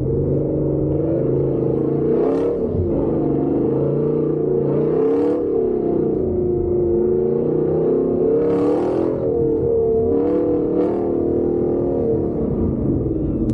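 Off-road truck engine driving on a dirt track, revs rising and falling. Short bursts of hiss break in five or so times.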